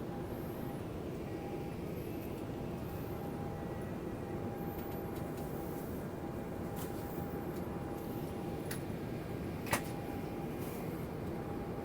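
Steady drone of a Boeing airliner's jet engines and airflow heard from inside the cabin during the climb after takeoff, with a faint steady tone running through it. A single sharp click comes near the end.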